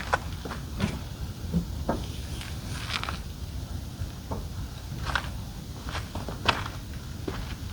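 Irregular light clicks and knocks, one or two a second, from hands and feet at work folding up a truck-mounted roof top tent.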